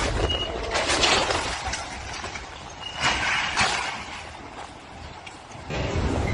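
Severe storm wind gusting in surges, with a low rumble, rising and falling and growing loud again near the end.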